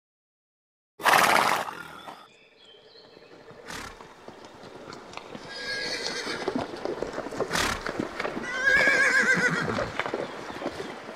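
Horses neighing. After a second of silence comes a loud sudden neigh, then two long quavering whinnies, about six and nine seconds in, with a few sharp knocks between them.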